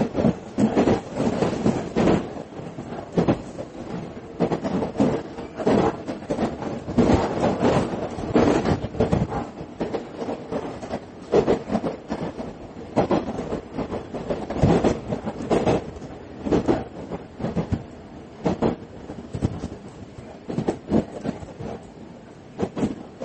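Running noise inside a JR East KiHa 110 series diesel railcar: a steady rumble with wheels knocking and clattering irregularly over the track.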